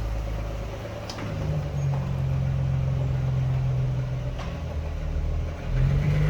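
Nissan 350Z's VQ35DE V6 running at a steady, held engine speed, with a short dip in revs near the end. The engine is being pushed despite a known rod knock.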